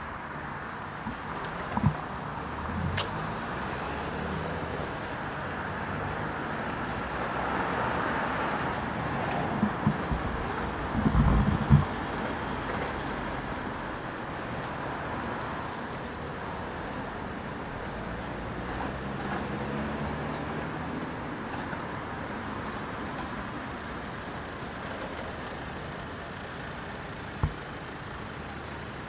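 Street traffic: cars and heavier vehicles passing in a steady wash of road noise that swells and fades, with a few short low thumps, a cluster of them about ten to twelve seconds in.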